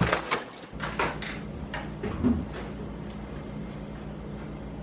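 A few sharp clicks and knocks, like a door being handled and opened, over the first couple of seconds. Then a steady low hum of a room sets in.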